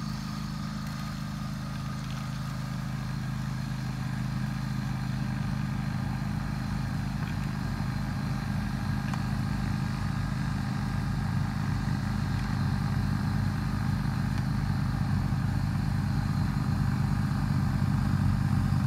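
John Deere X324 lawn tractor's engine running steadily while it drives a 44-inch snowblower through deep snow, gradually growing louder.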